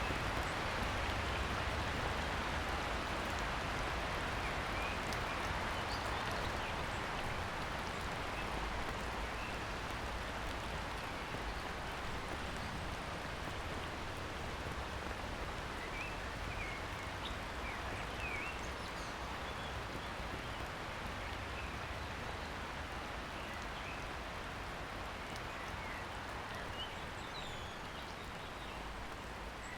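Light rain falling steadily on a pond and slowly dying away. Short bird chirps and calls begin over it, more often in the second half.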